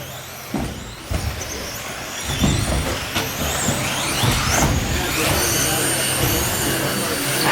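Several electric RC stadium trucks racing together, their motors whining and rising and falling in pitch as they accelerate and slow through the corners.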